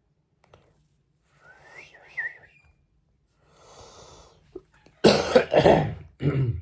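A person coughing: three loud, harsh coughs in quick succession in the last second and a half, after a couple of softer breathy sounds.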